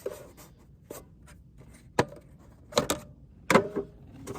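Scattered sharp clicks and knocks of hand tools against the metal parts of a lawn mower being taken apart, with a sharp knock about two seconds in and a cluster of clinks, one ringing briefly, a little past three seconds.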